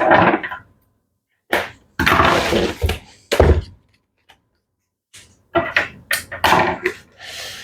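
Unpacking a cardboard shipping box: a string of short scraping, rustling handling noises with a dull thump about three and a half seconds in.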